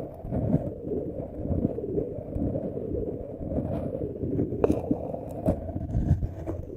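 Muffled rubbing and scratching directly on the microphone, a steady dull rustle with two sharp clicks, about four and a half and five and a half seconds in.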